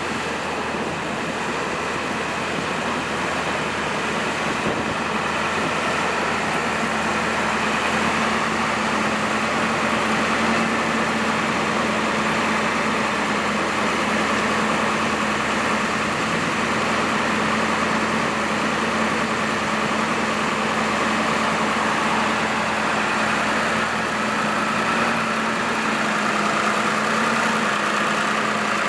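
2002 Ford F550 bucket truck's engine running steadily at idle with the PTO engaged, driving the Elliott boom's hydraulics while the boom is worked. It holds an even hum with no change in speed.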